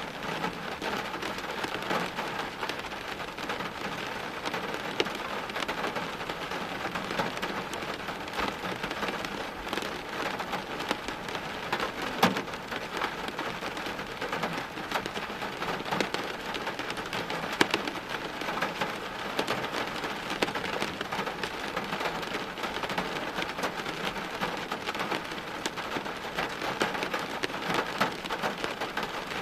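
Steady rain falling on hard surfaces, an even hiss dotted with sharp ticks of single drops, a few of them louder.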